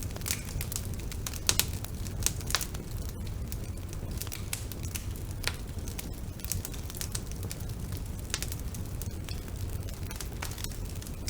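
Bonfire burning: a steady low rumble of flames with irregular sharp crackles and pops of burning wood, a few louder pops in the first few seconds.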